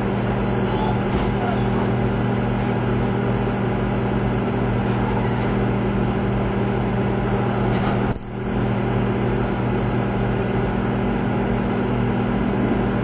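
Microwave oven running: a loud, steady electrical hum over the noise of its fan, with a brief drop about eight seconds in.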